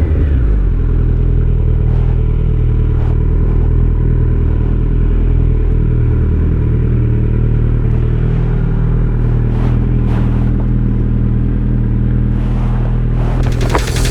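Kawasaki Z900's inline-four engine idling steadily through an Akrapovic exhaust, with a few faint clicks over the top.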